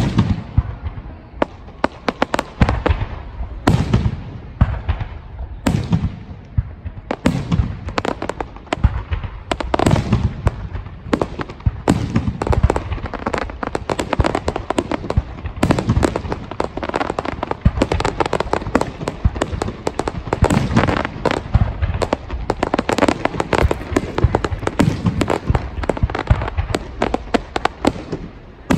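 Aerial fireworks display going off in a dense, unbroken barrage: many bangs a second layered with crackling.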